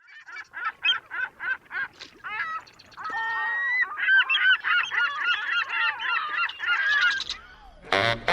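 A flock of birds honking. It begins as single short calls, about three a second, then turns into many overlapping calls for several seconds before stopping. Music with brass starts just before the end.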